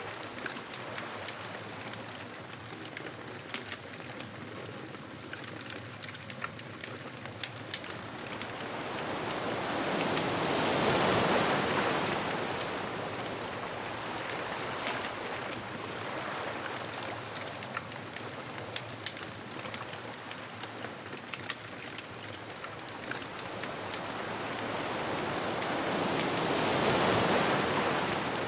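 Ocean waves breaking and washing up a beach, two waves swelling and fading about sixteen seconds apart, with a bonfire crackling in small sharp pops throughout.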